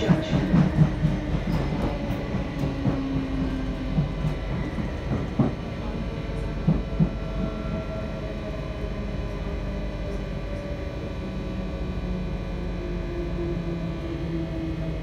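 Passenger train running at speed, heard from inside the carriage: a steady rumble of the wheels on the track, with a few sharp knocks in the first half. A steadier low hum comes in for the last few seconds.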